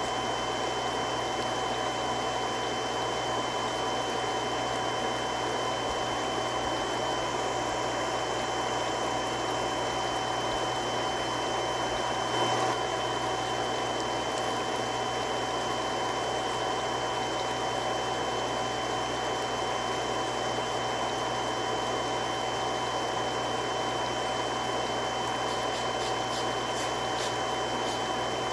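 Three-stage irrigation water pump running steadily: a constant hum with steady whining tones over a rushing noise. A brief thump comes about twelve seconds in.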